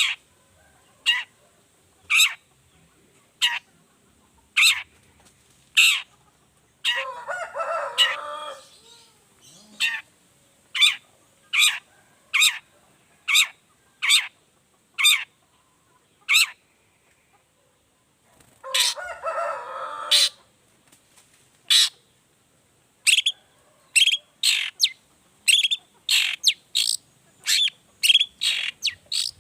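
Long-tailed shrike (cendet) calling: a series of short, sharp 'toet' notes about one a second, speeding up to about two a second near the end. Twice, at about seven and nineteen seconds in, a longer harsh, scratchy phrase breaks in.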